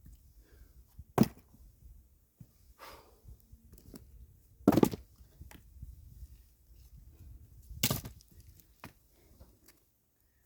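Axe splitting firewood: three heavy chopping strikes about three seconds apart, with wood cracking and splitting and a few lighter knocks of pieces falling in between.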